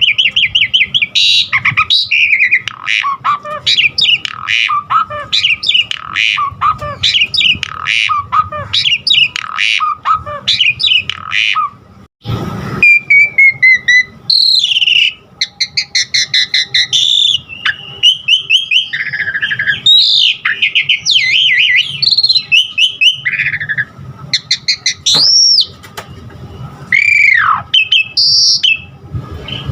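Asian pied starling (jalak suren) singing loudly in a long, varied song of rapid chattering notes, trills and clear whistles, with phrases taken from other birds' songs. It breaks off briefly with a short thump about twelve seconds in. Near the end come two clear whistles that rise and then fall.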